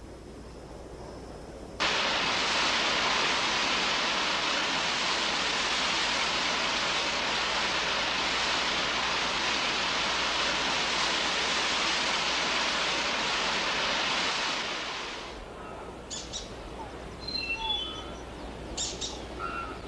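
Steady rushing noise of falling water that starts abruptly about two seconds in and stops around fifteen seconds. After it, birds give scattered short calls.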